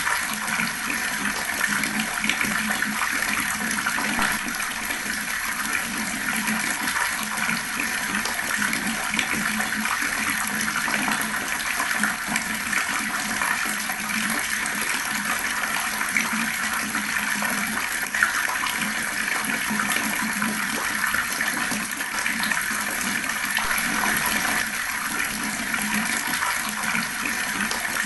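Fast-flowing water running in a steady, unbroken rush.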